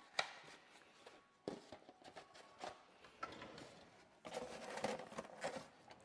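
Faint handling noises: a few sharp taps and knocks, then a longer stretch of rustling about four seconds in.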